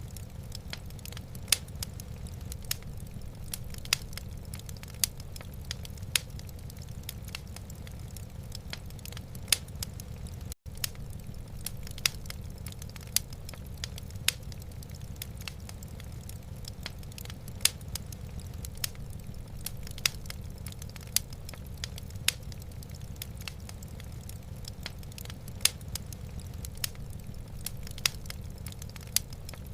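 Wood fire crackling in a fireplace: irregular sharp pops and snaps, several a second, over a steady low rumble. The sound cuts out for an instant about ten seconds in.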